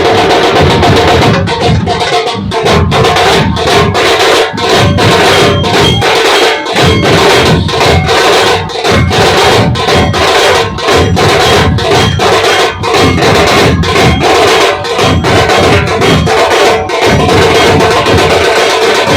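Dhol pathak drumming: a troupe of large dhol drums beaten loudly in a fast, dense, continuous rhythm.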